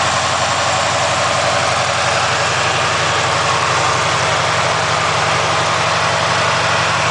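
1975 Chevrolet Chevelle Malibu Classic's 400 small-block V8 idling steadily as it warms up after a cold start, heard through its 2.5-inch exhaust pipes.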